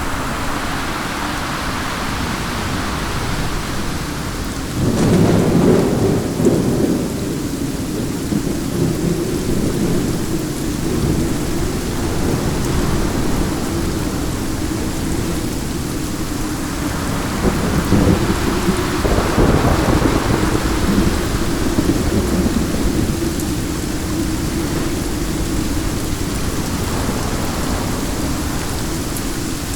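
Steady heavy rain with wind. Two deep rumbles swell up, one about five seconds in and a longer one a little past the middle.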